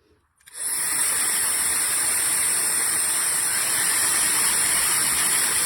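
CNMSGM high-speed ionic hair dryer switched on about half a second in, then blowing steadily with a loud rush of air and a thin, high whine from its fast motor.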